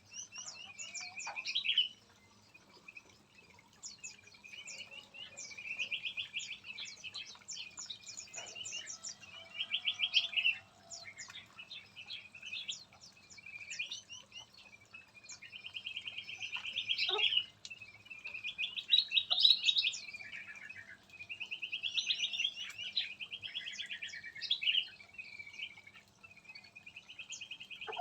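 Small aviary songbirds chirping and twittering, with repeated fast trills of a second or two each and sharp high chips between them, several birds calling over one another at times.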